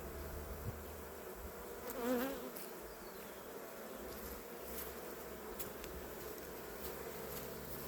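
Honey bees humming steadily around an opened hive, with a louder buzz that wavers in pitch about two seconds in and a few faint clicks.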